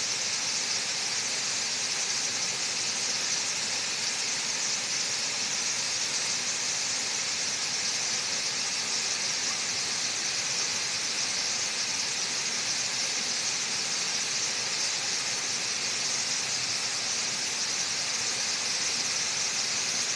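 Waterfall rushing steadily: a constant hiss of falling water, strongest in the high range.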